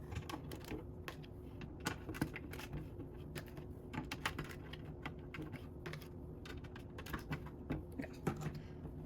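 Small plastic Lego pieces clicking and clattering as they are handled: light, scattered clicks at irregular intervals.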